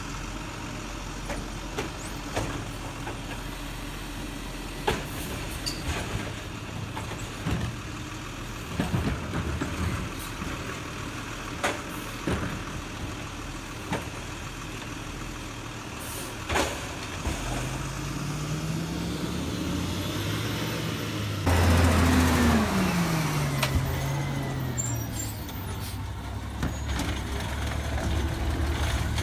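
Garbage truck idling with scattered sharp clanks and knocks. About two-thirds of the way in, its engine rises, there is a sudden loud hiss of air brakes, and the engine's pitch falls away before it settles back to a steady run.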